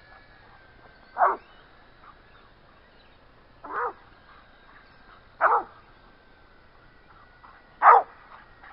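A dog barking four times, single barks a couple of seconds apart, over a faint steady high whine.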